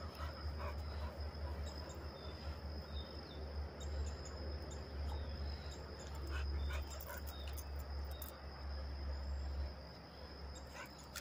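Dogs making small sounds over a steady high insect trill, with a low rumble throughout that eases near the end.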